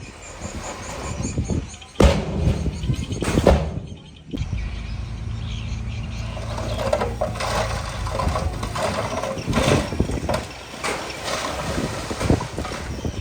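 Heavy-machinery diesel engine running steadily, with loud knocks and clanks about two and three and a half seconds in.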